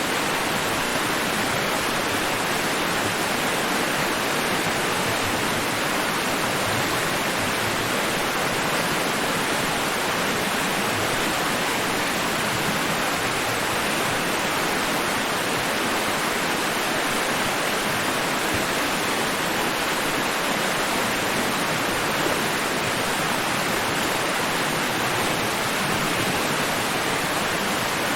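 Steady white-noise hiss with no changes in level and no swells of breaking waves.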